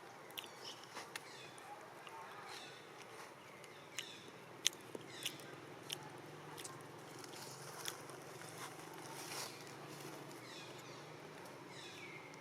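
Faint high squeaks that fall in pitch, from a small animal, mixed with scattered sharp clicks and taps; the loudest click comes about four and a half seconds in.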